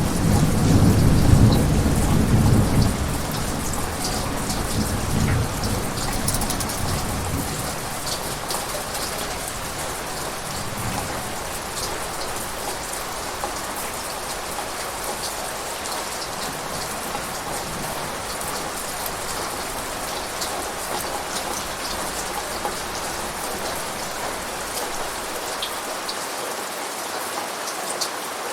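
Steady heavy rain pattering, with a roll of thunder rumbling low at the start and fading away over the first several seconds.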